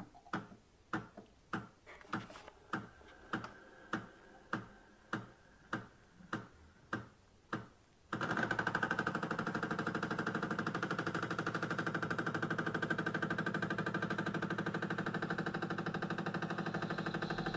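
A Bosch Tassimo pod drinks machine brewing after its start button is pressed. It gives regular clicks, about one every 0.6 s, and about eight seconds in its pump starts a loud, steady buzz as it dispenses.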